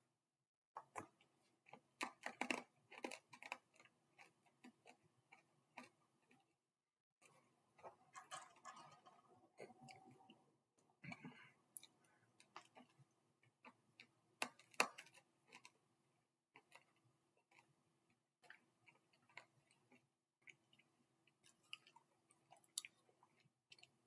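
Chewing and crunching Red Hots, small hard cinnamon candies: irregular sharp crunching clicks with brief pauses.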